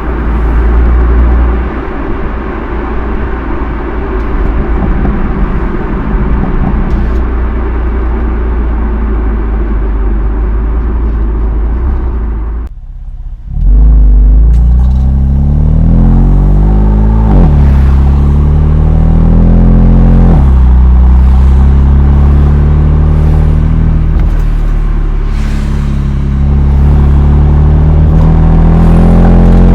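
BMW M2 Competition's twin-turbo straight-six exhaust on the stock muffler: a steady low drone for about twelve seconds, a brief dip, then the engine pulling through the gears with rising pitch and two quick upshifts, and a final climb before easing off near the end. The sound is slightly distorted from an overloaded microphone.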